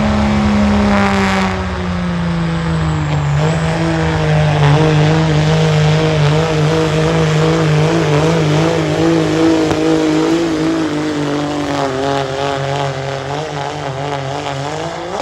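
Diesel pulling truck's engine running hard under load on a pull, its pitch holding nearly steady with a slight waver, then dropping away suddenly at the end.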